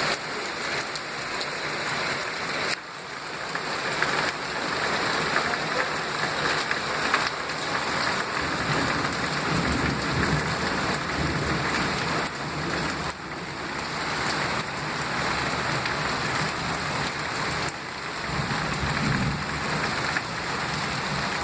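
Heavy rain pouring down steadily, with low rumbles of thunder about halfway through and again near the end.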